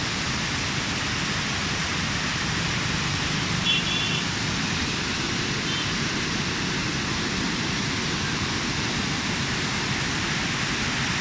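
Steady rushing of water from heavy rain falling on a small river, an even noise that does not change. A few short high chirps sound briefly about four seconds in.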